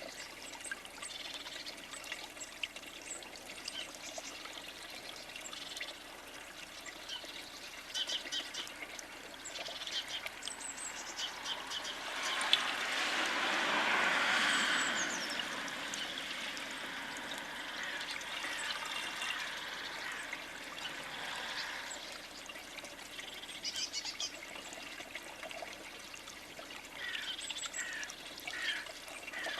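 Small birds chirping and calling in short, scattered notes at a bird feeder, over a steady outdoor rushing noise that swells up in the middle and then fades away.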